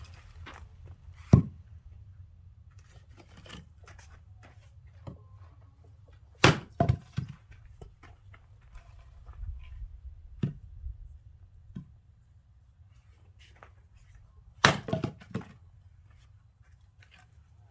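Axe blows splitting oak firewood: three heavy, sharp strikes several seconds apart, with a few lighter knocks between them.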